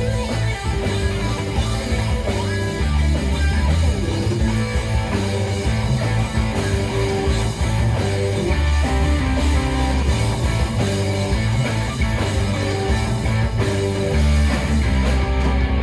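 Rock band playing live, electric guitar to the fore over a bass line of held low notes that change every second or so, with no singing.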